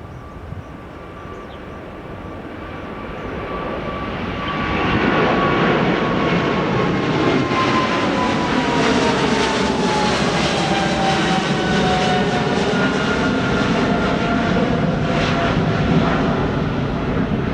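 Airliner jet engines passing close by: the engine noise swells over the first five seconds, then stays loud, while a whine slowly falls in pitch as the plane goes past.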